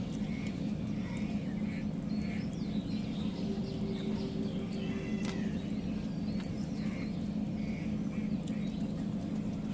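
Small birds chirping off and on over a steady low hum, with scattered faint clicks.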